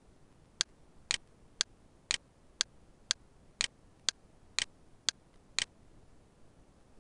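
Eleven short, sharp clicks at an even pace of about two a second, stopping a little before the end.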